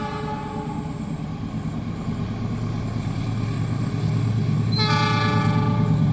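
A train's horn sounding two blasts, the first fading out about a second in and the second starting near the end, over the low rumble of an approaching train that grows steadily louder.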